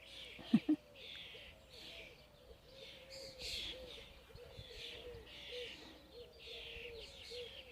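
Several songbirds singing in short repeated phrases of high notes, with a lower note repeated steadily underneath. Two short knocks about half a second in.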